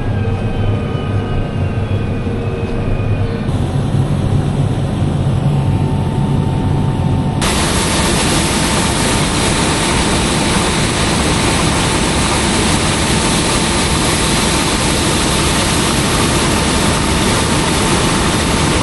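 Heavy machinery engine running steadily. About seven seconds in the sound cuts suddenly to a louder, hissing machine noise with a steady whine, which stops abruptly near the end.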